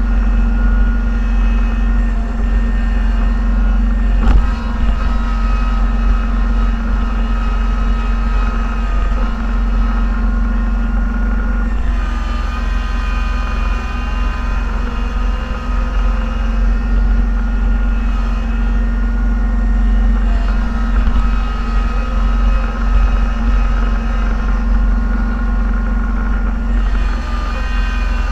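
Snow-plowing vehicle's engine running steadily under load, heard from inside the cab: a loud low drone with a higher whine that shifts up and down in pitch a few times. A single knock about four seconds in.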